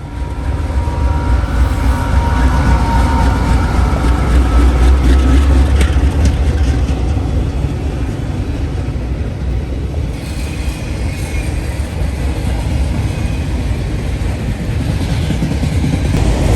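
Mid-train GE AC44CW diesel locomotive, running as a remote-controlled distributed power unit, passing close with a deep engine rumble that fades after about six seconds. The freight cars behind it follow, their wheels rolling steadily on the rails with scattered clicks.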